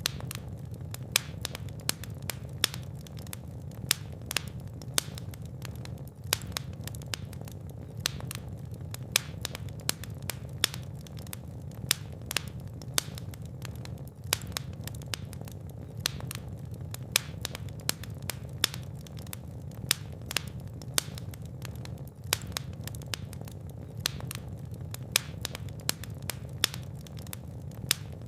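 Fireplace fire burning, with frequent sharp crackles and pops over a low, steady rumble.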